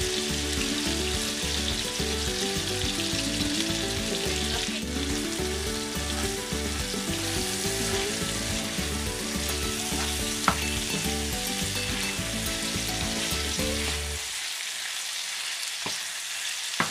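Chicken pieces sizzling in hot oil in a nonstick frying pan, stirred and turned with a wooden spoon, with a sharp knock of the spoon against the pan about ten seconds in. Low background music with a steady beat plays underneath and stops about two and a half seconds before the end.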